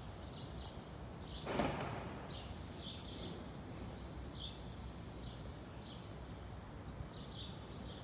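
Small birds chirping: short, high, downward chirps repeated every half second to a second, over a steady low background rumble. A brief rush of noise comes about one and a half seconds in.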